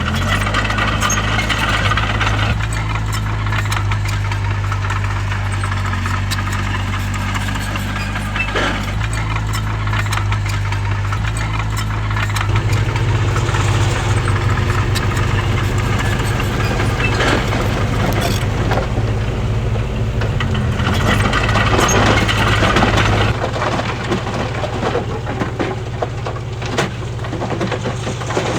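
Bulldozer's diesel engine running under load, its note shifting a couple of times, with irregular rattling and scraping over it.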